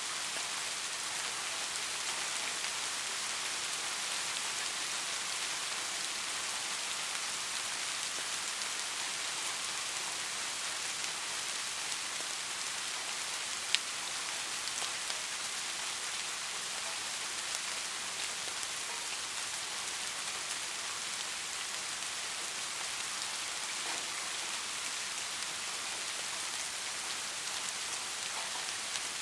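Steady rainfall: a dense, even hiss of countless drops, with one sharp tick about halfway through.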